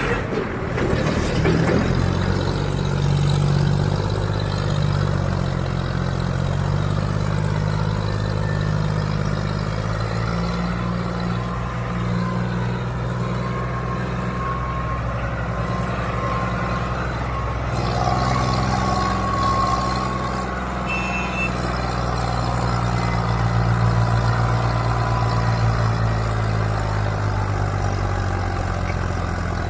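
Tractor diesel engines running under load as the tractors work in sand. The deep engine note rises and falls slowly but never stops.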